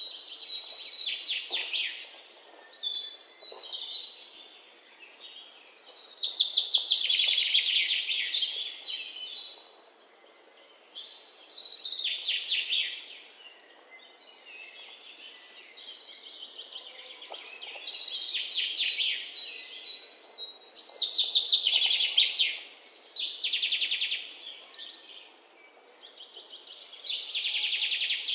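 Birds calling in repeated high-pitched bouts of rapid trills, each lasting a second or two and coming every few seconds, over a faint steady hiss.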